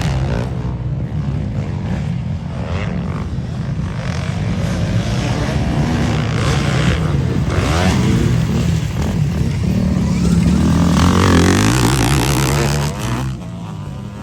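Motocross dirt bike engines revving, the pitch rising and falling with the throttle. The sound grows louder about eleven seconds in and drops away sharply just before the end.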